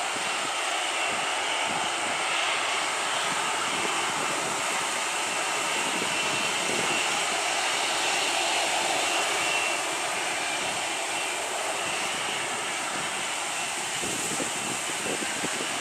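Jet engines of a Boeing 737 airliner running steadily at low power on the ground: a steady rushing noise with a faint high whine.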